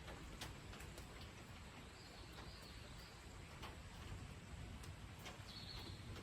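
Faint steady rain with scattered drops ticking, and two short high bird calls, one about two seconds in and one near the end.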